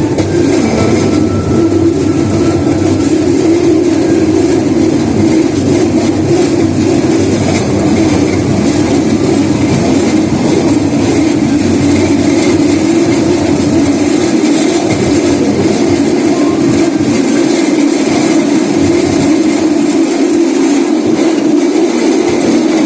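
Small rail vehicle running steadily along the track: a continuous rolling rumble of wheels on rail with a steady drone, its deepest rumble thinning out about two-thirds of the way in.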